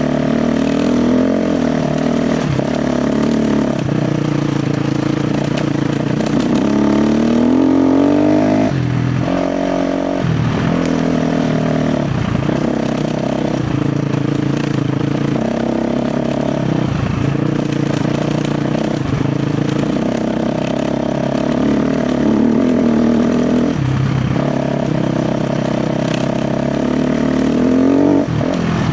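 KTM 350 XC-F dirt bike's single-cylinder four-stroke engine under load, its revs rising and dropping again and again as the throttle is worked, with a long climb in revs about eight seconds in and another just before the end.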